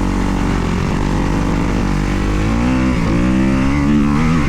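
2024 Kawasaki KX250's four-stroke single-cylinder engine running under riding, the revs holding, dipping briefly about three seconds in, then climbing again.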